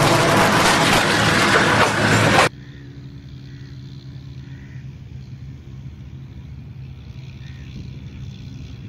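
A diesel-hauled passenger train passing close by: loud rushing and rumbling of wheels and coaches that cuts off suddenly about two and a half seconds in. After that comes a much quieter open-air background with a low steady engine hum.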